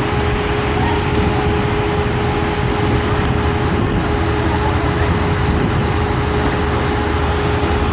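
Steady rush of falling and splashing water at a pool, with a constant hum running through it and faint voices in the background.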